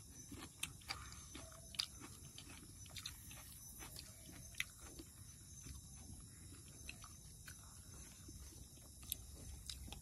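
Faint chewing and mouth smacking of people eating rice and chicken gravy by hand, with scattered small clicks.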